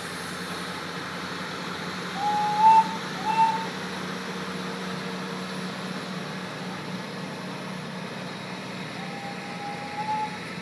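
Passenger train cars rolling slowly along the track, a steady rumble with a low hum. Two loud short rising squeals come about two to three seconds in, and a fainter one comes near the end.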